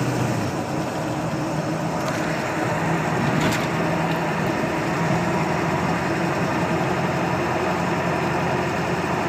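1999 Ford F-250's 7.3-litre Power Stroke V8 turbo-diesel with Banks exhaust running steadily under way, with road noise, heard from inside the cab. At this speed it runs evenly, without the rough, lopey idle it develops when coasting below about 40 mph, which the owner blames on a burnt valve-cover harness misfiring the injectors.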